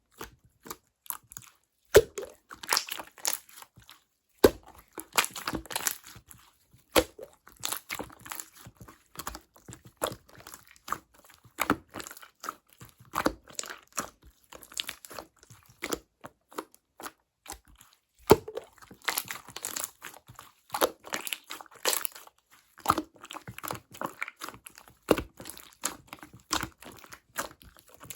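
Slime being squished, folded and stretched by hand, making a dense, irregular run of sharp popping clicks and crackles from trapped air. Two of the pops stand out as louder: one about two seconds in and one about eighteen seconds in.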